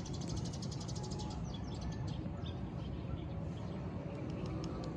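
Small birds chirping: a fast, high trill of repeated notes in about the first second, then scattered short chirps, over a steady low rumble.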